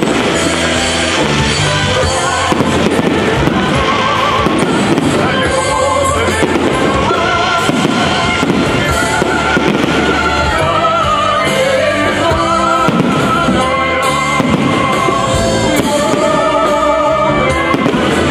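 Fireworks bursting, with sharp bangs throughout, mixed with music that carries a melody and a steady bass line.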